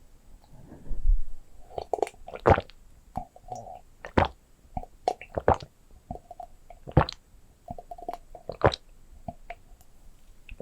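Close-miked ASMR object triggers: irregular sharp taps and clicks, about a dozen spread unevenly, mixed with short soft squishy handling sounds.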